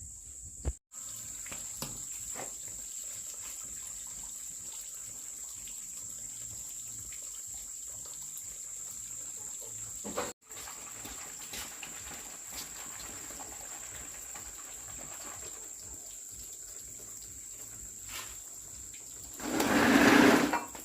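Steady high insect chirring outdoors, with faint scattered ticks and knocks. Near the end a louder, noisy sound lasts about a second.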